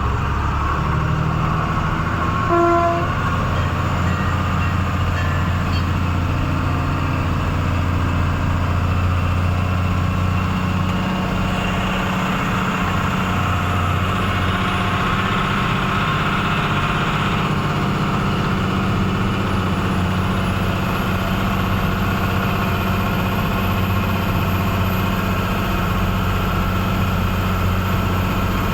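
Truck's diesel engine running steadily while driving, with a short horn toot about two and a half seconds in.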